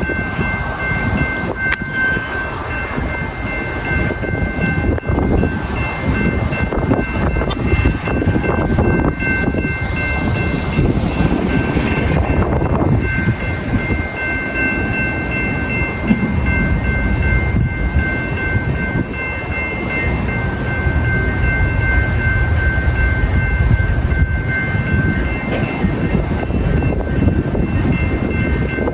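A train passing at speed, a continuous loud rumble of wheels and cars on the rails, with steady high tones held over it for most of the time.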